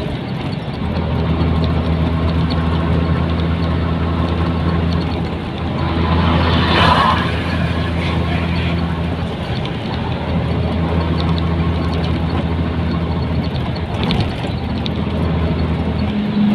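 Nissan Diesel container truck's diesel engine running steadily while driving, its low note dipping briefly a few times. A short louder rushing sound comes about seven seconds in.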